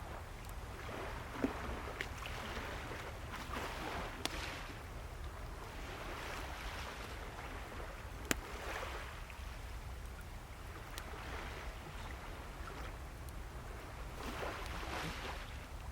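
Sea waves washing ashore in slow swells every few seconds, with a wood fire crackling close by and giving a few sharp pops.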